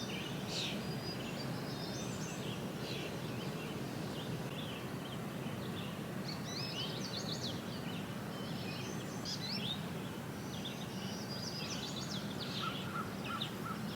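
Birds chirping and calling, many short quick chirps overlapping, over a steady low background noise. Near the end a short run of lower, evenly spaced notes joins in.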